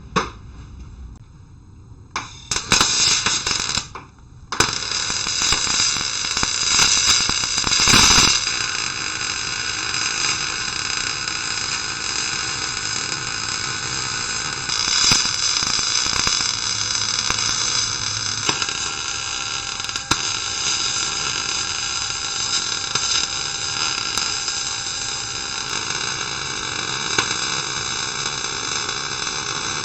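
Electric arc welding: the arc starts about two seconds in with a steady crackling hiss, breaks off briefly near four seconds, then restarts and runs continuously as a long bead is laid.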